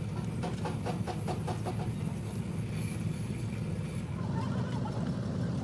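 Steady low mechanical rumble, with a quick run of about ten light clicks in the first two seconds and a faint wavering whine near the end.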